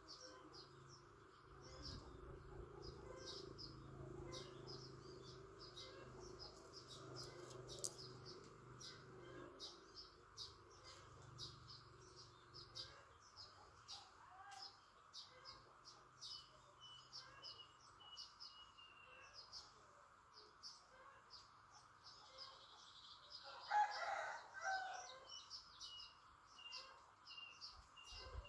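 Faint, rapid high-pitched bird chirping, with a louder, lower call about 24 seconds in. A low hum underneath fades out about halfway through.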